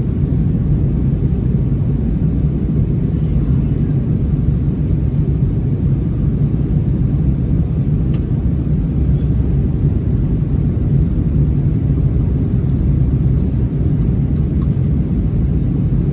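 Steady low rumble of an Airbus A321neo's cabin in flight, engine and airflow noise heard from a passenger seat while the airliner is on approach to land.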